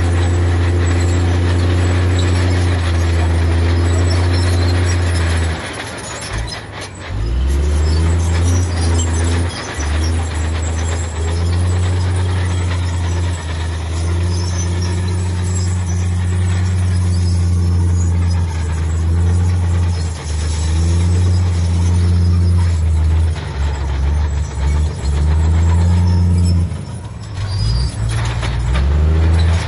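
Heavy diesel engine of earthmoving machinery running under varying load, its low drone easing off briefly about six seconds in and again near the end before picking back up.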